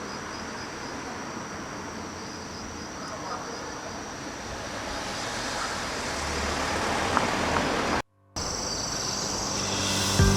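Steady outdoor ambience: a wash of distant traffic noise with insects chirping in a high, pulsing trill. It breaks off briefly about eight seconds in, and music starts near the end.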